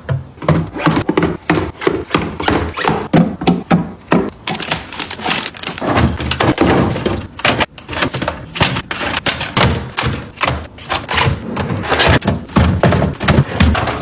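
Rapid, continuous taps and thunks of objects being handled and set down on hard surfaces, with occasional duller thumps.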